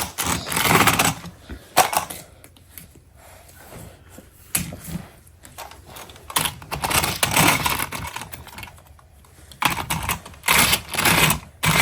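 Plastic toy track pieces being handled, clicking and clattering in irregular bursts with short pauses between.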